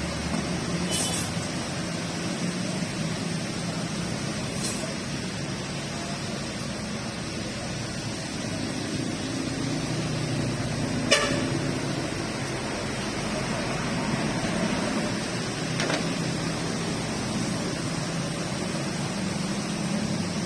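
Steady rain noise with road traffic passing, vehicle engines humming in and out. A few sharp knocks, the loudest about halfway through.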